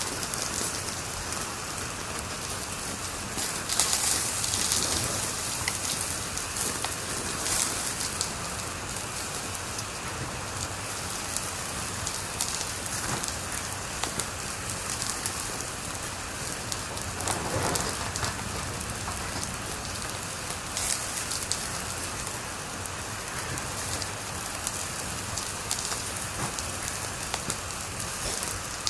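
Wood fire crackling in a fireplace: a steady hiss full of small pops and snaps, with a few louder flare-ups of crackling about four seconds in, near eight seconds and halfway through.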